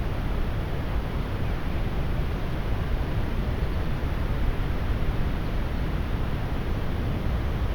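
Heavy rain falling in strong wind: a steady hiss of rain over low wind noise buffeting the microphone.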